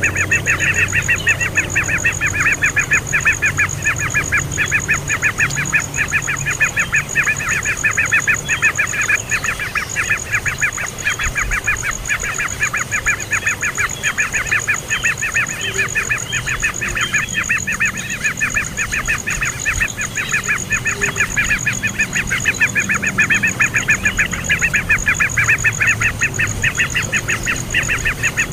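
A young bird chirping rapidly and without pause, a fast, even train of short high chirps, typical of a fledgling's begging calls.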